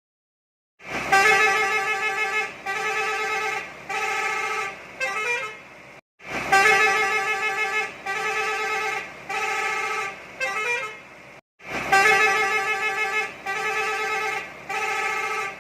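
Bus horn playing a short tune: three long steady notes and a quick warbling run, the same phrase sounded three times about five seconds apart, starting about a second in.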